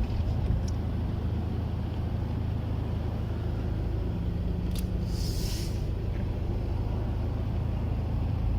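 Car driving on a rain-wet road: a steady low rumble of engine and tyres, with a short hiss about five seconds in.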